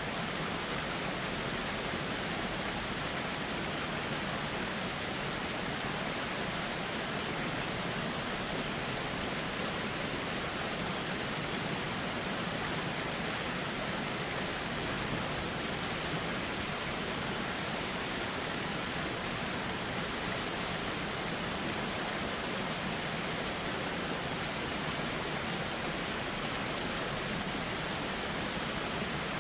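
A calm river flowing steadily: an even, unbroken rush of water with no distinct splashes or other events.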